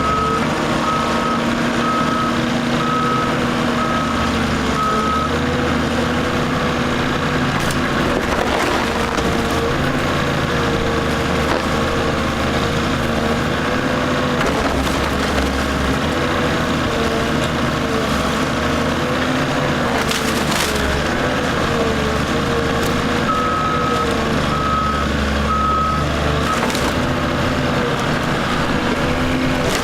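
Heavy demolition machine running steadily while it tears into a wooden house: wood splintering, with a few sharp cracks, over the engine. A reversing alarm beeps for the first few seconds and again near the end.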